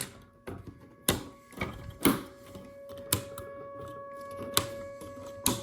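LEGO pieces being pushed into place, a series of about seven sharp, irregular plastic clicks. A steady hum comes in about two seconds in and carries on underneath.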